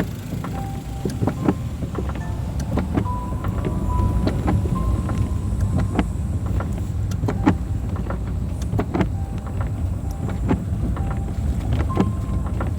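Car driving in rain, heard from inside: steady low road and engine rumble with irregular sharp ticks of raindrops on the car, and a few brief squeaky tones now and then.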